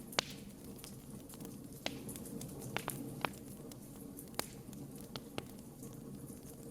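Wood campfire burning, with irregular sharp crackles and pops over a low, steady background of flames.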